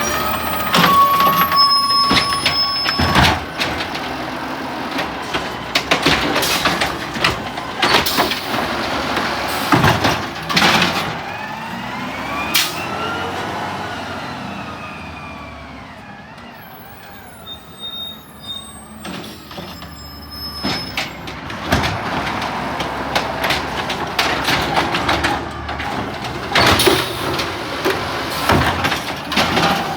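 Garbage truck at work: its engine revs up and falls back repeatedly, with loud bangs and metal clatter throughout and a short steady tone near the start.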